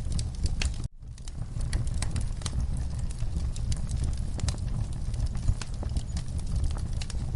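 Wood fire crackling in a fireplace: a steady low rumble of flames with frequent sharp pops and snaps. The sound cuts out for an instant about a second in, then fades back up.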